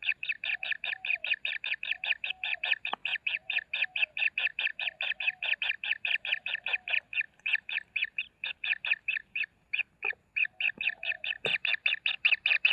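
Kingfisher nestlings begging: a fast, steady series of harsh, scratchy calls at about six a second, with a short break about ten seconds in and a single knock shortly after.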